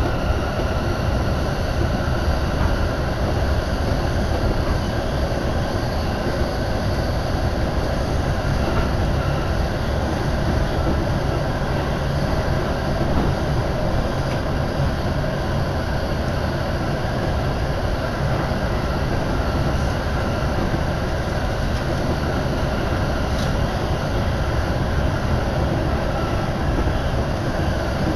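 Keihin-Tohoku Line commuter train running between stations, heard from inside the passenger car: a steady, even rumble of the moving train.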